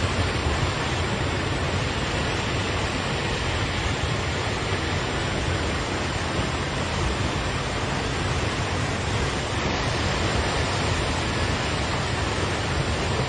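Steady rushing roar of fast-flowing floodwater, unbroken throughout.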